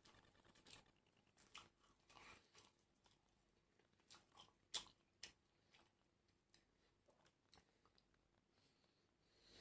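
Faint, close-miked chewing and biting of crunchy food, with scattered crisp crunches; the sharpest crunch comes a little before halfway through.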